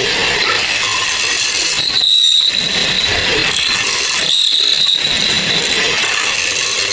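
A power tool working wood: a loud, steady noise with a constant high whine, which twice thins out for a moment.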